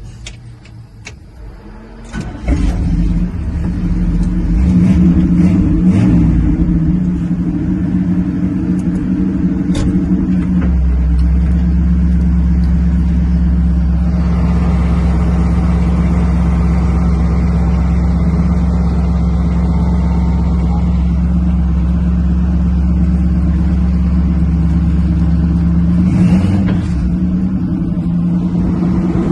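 Oldsmobile 350 Rocket V8 in a 1954 Ford F-100 starting up after a few clicks about two seconds in, then running steadily. About ten seconds in a deep low rumble sets in and holds, with a brief swell near the end.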